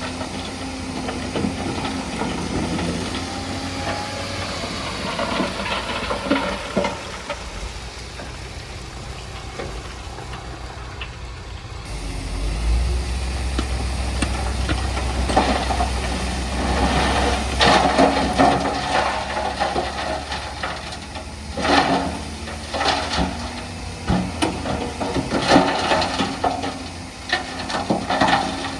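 Diesel engine of heavy earthmoving machinery running steadily. About twelve seconds in the sound changes abruptly to a louder, deeper engine note, joined by repeated metallic clanks and rattles.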